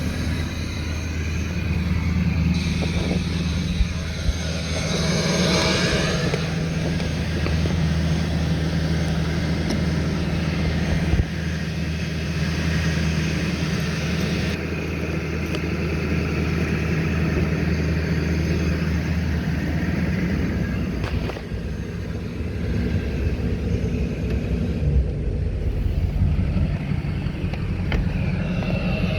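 2005 Duramax LLY 6.6 L turbo-diesel V8 running steadily at high idle after a cold start. Its note changes about two-thirds of the way through.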